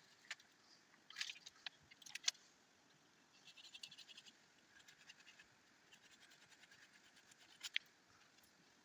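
Faint scattered scratches and sharp clicks, with a short run of rapid light scraping about three and a half seconds in.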